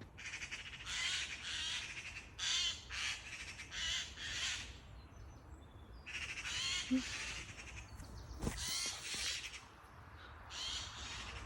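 Crows calling in a long run of harsh, rasping caws, as birds squabble, with a short lull midway.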